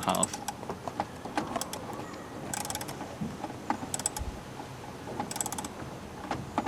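Small clicks and knocks of hands working on car parts, with two short bursts of rapid ratchet-like clicking.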